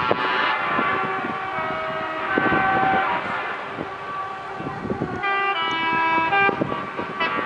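Truck air horns sounding held notes in several pitches, the loudest blast a chord from about five seconds in, over the rumble of passing truck engines.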